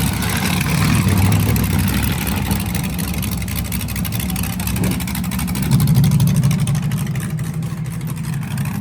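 LS V8 engine running at idle, a steady low rumble with a couple of brief swells as it is blipped, about a second in and around six seconds in.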